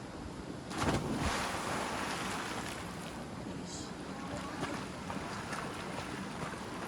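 A person swimming: a loud splash about a second in, then water sloshing with small splashes from their strokes.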